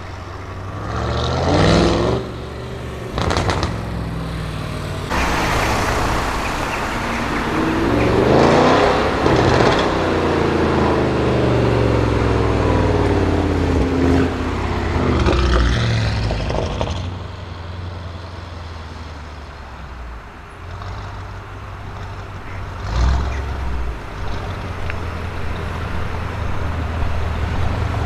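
Audi RS6 Avant C7's twin-turbo V8 through a Milltek exhaust, idling with a few quick throttle blips. In the middle it revs up hard and then falls away in pitch, and it cuts off sharply about two-thirds of the way through. Another short blip comes near the end.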